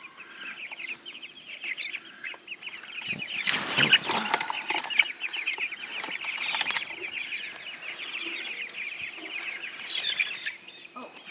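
A flock of young meat chickens peeping and cheeping nonstop in quick, high chirps. A louder rushing, scraping noise cuts across them from about three and a half to five seconds in.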